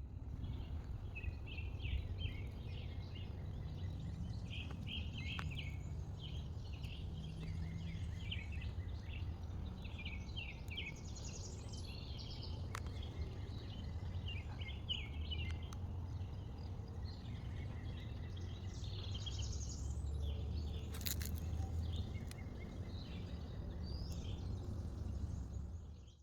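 Small birds chirping and singing over a steady low rumble, with a brief click twice.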